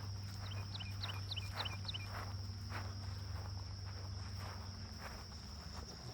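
Footsteps on a trail at an even walking pace, under a steady high insect drone. About half a second in comes a quick run of about six short, high chirps from a small bird.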